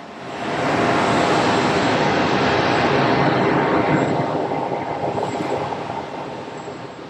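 Jet airliner passing close by. The rushing noise of its engines swells within about a second, holds for a few seconds, then fades away.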